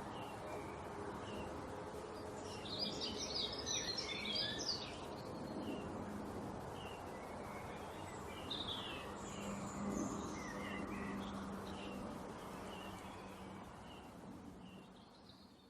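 Small songbirds chirping and twittering over steady background noise, with a burst of quick overlapping twitters about three seconds in and scattered calls after; the sound fades out at the end.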